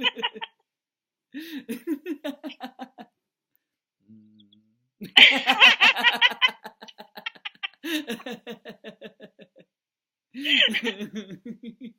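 People laughing heartily in repeated bouts of rhythmic 'ha-ha' pulses with short breaks between, the loudest bout about halfway through: deliberate laughter-yoga laughter.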